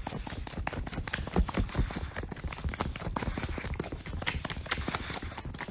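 A dense, irregular clatter of sharp knocks and clicks.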